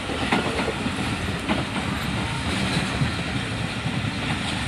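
Passenger train coach running at speed, heard from aboard: a steady rumble of steel wheels on the rails, with a few sharp clicks as the wheels pass over rail joints.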